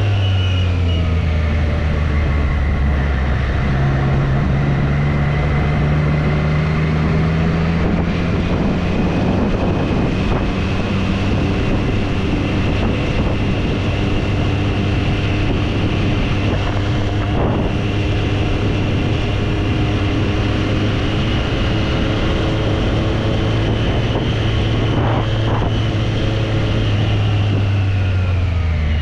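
2024 Triumph Street Triple's 765 cc inline-three engine running at a steady cruise, its pitch falling just after the start and again near the end as it slows, with wind rushing over the microphone.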